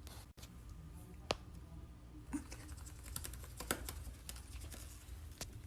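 Faint, scattered sharp clicks and taps over a low hum, with a few louder clicks about a second in, near the middle and near the end.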